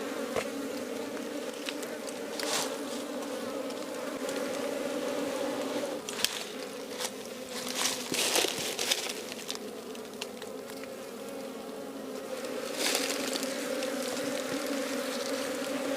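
A colony of honeybees buzzing steadily as their combs are cut out of the nest, with a few short rustles and clicks from time to time.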